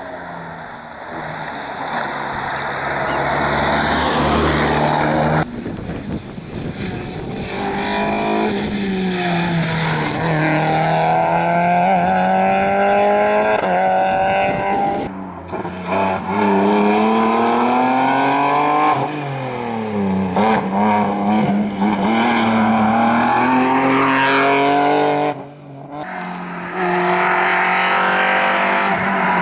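Rally car engines revving hard, pitch climbing and dropping repeatedly with gear changes as the cars accelerate along the stage. The sound cuts abruptly three times from one car's pass to the next.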